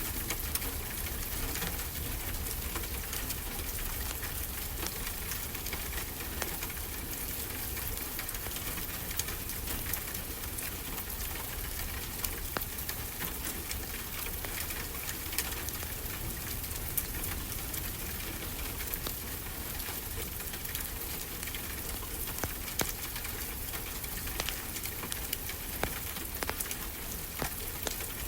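Wood fire crackling, with many sharp little pops scattered throughout, over a steady hiss and low rumble of ocean surf.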